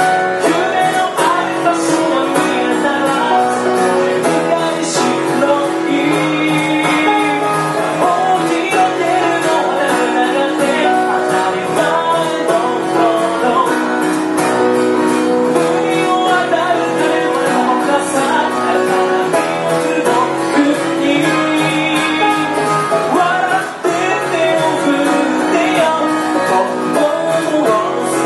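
Live music with singing and plucked strings, an acoustic-guitar-led band playing without a pause.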